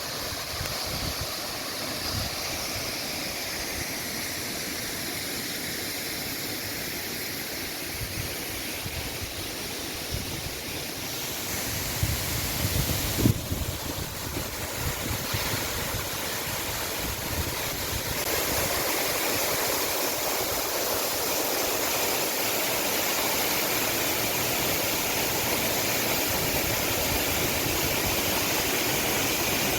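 Waterfall: a steady rush of falling water, with a few low thumps about halfway through, growing louder about two-thirds of the way in.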